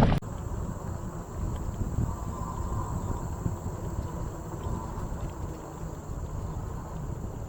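Insects trilling steadily in one continuous high tone, over a low rumble.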